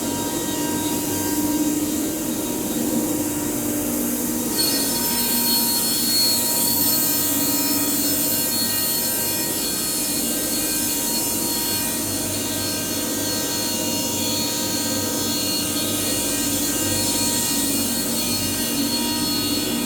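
ATC CNC router running, its spindle giving a steady high-pitched whine with several held tones; about four and a half seconds in the sound turns brighter and higher, then stays steady.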